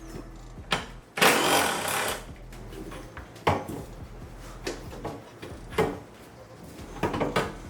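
Plastic engine-bay trim being bent and wiggled loose by hand: a loud scraping rush about a second in, then scattered clicks and knocks of plastic.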